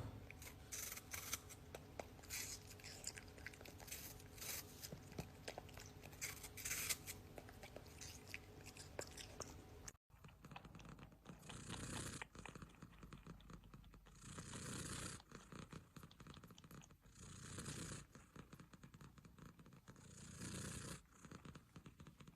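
Faint scattered clicks and rustling, then, from about ten seconds in, a cat purring close to the microphone in swells that come and go about every three seconds.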